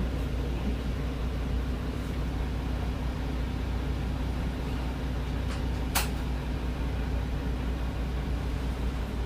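Route bus's diesel engine running steadily, heard from inside the cabin as a low rumble with a steady hum. A sharp click about six seconds in, with a fainter one just before it.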